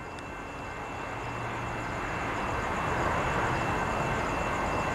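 Diesel locomotives of a freight train approaching at low speed, their engine noise growing steadily louder.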